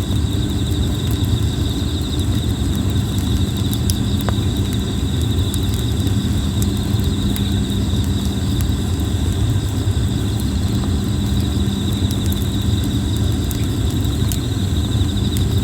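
Plum-wood campfire crackling with scattered small pops over a steady low rumble, while insects trill continuously.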